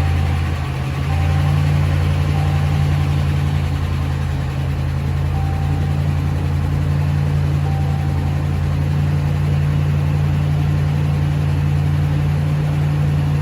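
A 2013 Ram Laramie's 5.7 Hemi V8 idling steadily just after its first start following a camshaft and lifter replacement, while the new lifters are still being charged with oil.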